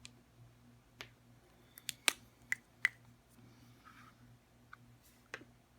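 A handful of sharp, separate clicks and taps from handling Sharpie markers and a plastic phone case, the loudest about two seconds in, over a faint steady low hum.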